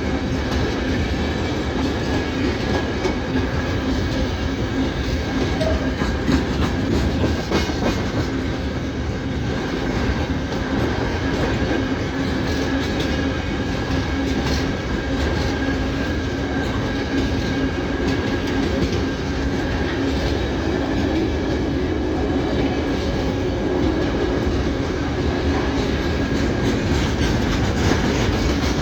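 Train running on rails: a steady rumble with a constant hum and scattered clicks of the wheels over the rail joints.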